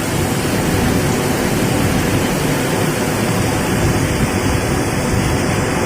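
Heavy wind-driven rain: a loud, steady rushing.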